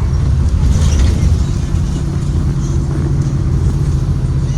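Ford 7.3-litre gasoline V8 of a 2023 Blue Bird Vision school bus running as the bus is under way, heard from inside the cabin as a loud low rumble with road noise. A steady engine hum settles in about a second and a half in.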